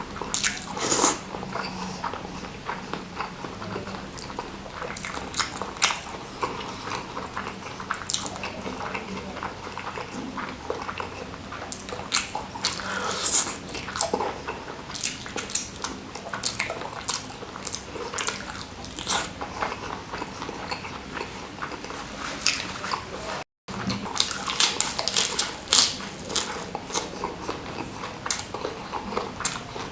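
Close-miked chewing and biting of salted baby squid sambal with petai and rice: many short crunchy, clicking mouth sounds, irregular throughout, with a split-second gap about two-thirds of the way through.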